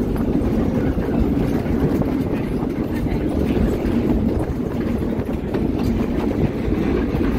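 Steady rumble of a moving train heard from an open-air railcar, the sound of the wheels running on the rails.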